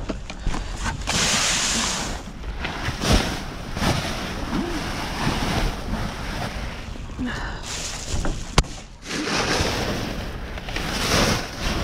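Rustling and handling noise from rummaging through trash in a dumpster, in swelling waves, with a sharp click about eight and a half seconds in.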